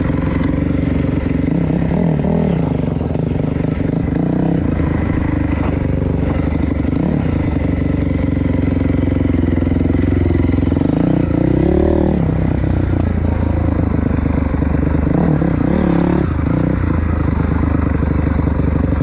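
Dirt bike engine running steadily while riding a trail. Its pitch swells and falls a few times with the throttle, most clearly a little past halfway through.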